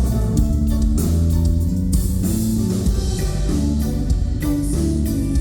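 Live rock band playing: electric guitar chords over bass and drums with steady cymbal hits, heard loud as a phone recording from the audience.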